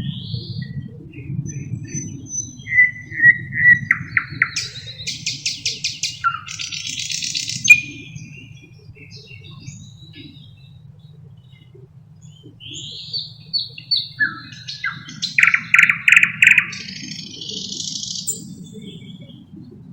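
Thrush nightingale singing two loud phrases with a quieter gap between them. Each phrase is built from fast runs of sharp, repeated clicking notes, rattling trills and short whistles. A low, steady rumble lies underneath.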